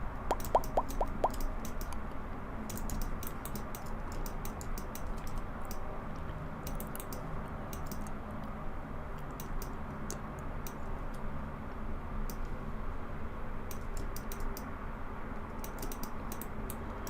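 Computer keyboard keys and clicks pressed in short irregular clusters over a steady low hum. A run of evenly spaced ticks, about seven a second, stops about a second in.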